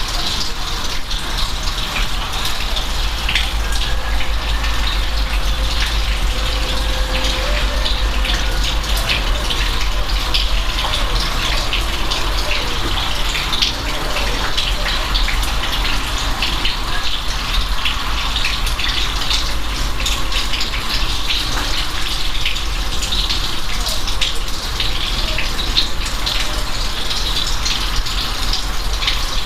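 Steady, heavy rain falling, with many individual drops ticking sharply over a constant rushing hiss and a low rumble underneath.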